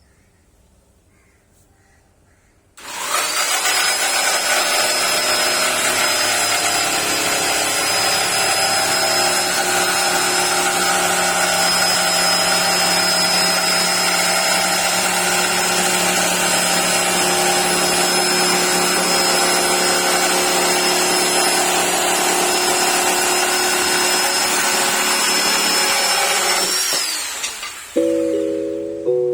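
Daewoo DAJS600 electric jigsaw starting about three seconds in and running steadily with a high motor whine for over twenty seconds. It is then switched off, its whine falling as the motor winds down near the end.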